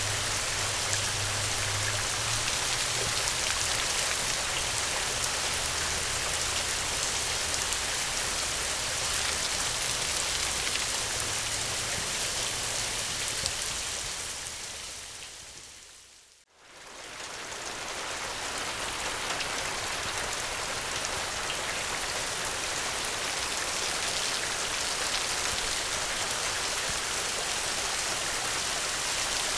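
Steady rain falling, an even hiss of drops. About halfway through it fades smoothly down to near silence and straight back up again.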